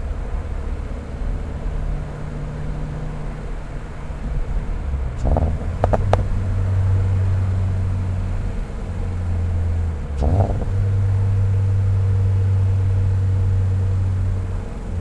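2022 Subaru BRZ's 2.4-litre flat-four, fitted with equal-length catted headers, a catless front pipe and an MRT axle-back muffler, running at low, steady revs. The engine note rises briefly about five seconds in and again about ten seconds in, each time settling into a slightly higher, louder steady drone.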